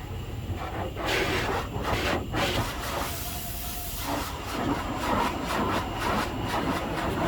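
High-pressure wash spray hissing against a semi truck in surges, over a steady low rumble.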